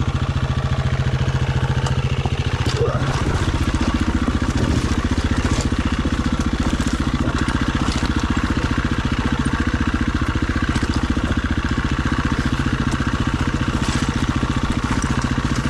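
Dirt bike's single-cylinder engine running steadily at low revs, with a few sharp clicks along the way.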